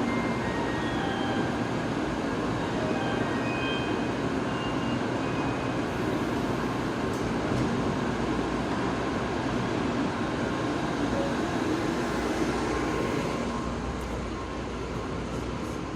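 Tokaido Shinkansen train running, a steady low rumble and rushing noise heard from inside the passenger car, easing slightly near the end.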